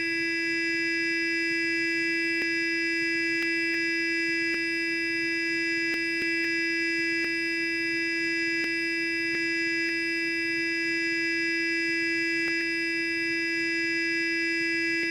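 Sonic electric toothbrush running continuously: a steady, even buzzing hum with a single fixed pitch and many overtones, with faint scattered ticks.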